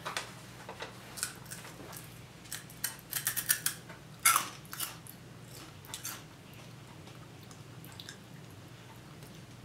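A crisp puffed shrimp chip being bitten and chewed: a quick run of small sharp crunches over the first few seconds, thinning to an occasional crunch.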